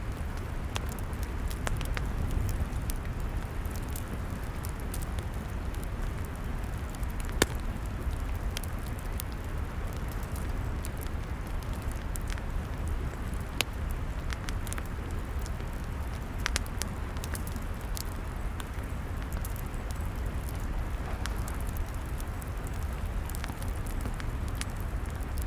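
Log fire crackling: irregular sharp pops and snaps over a steady low rumble, with one louder pop about seven seconds in.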